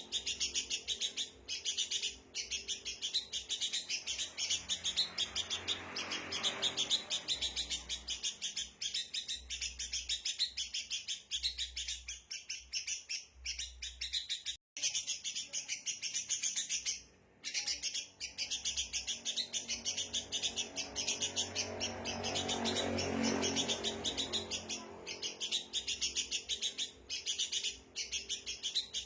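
Sooty-headed bulbuls (kutilang) in a noisy, agitated chatter of rapid, overlapping chirps that runs on without pause, apart from a brief break about fifteen seconds in.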